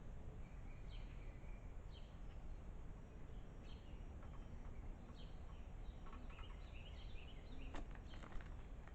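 A bird giving short, sharp call notes about once a second, turning into a busier run of chirps with a sharp tick about three-quarters of the way in, over a steady low outdoor rumble.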